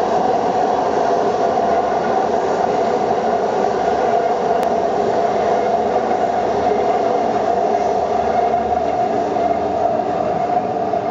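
Heavy rain pouring down steadily as an even, unbroken rush of noise.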